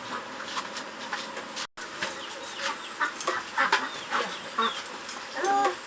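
Chickens clucking in a string of short calls, with a louder, longer call near the end.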